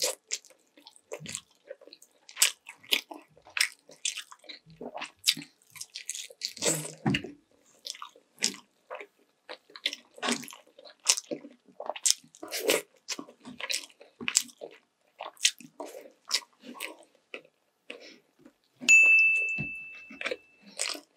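Close-up eating sounds: a person biting and chewing sweet and sour chicken legs and rice, with wet smacking and irregular quick clicks. Near the end, one loud ringing ding fades out over about two seconds.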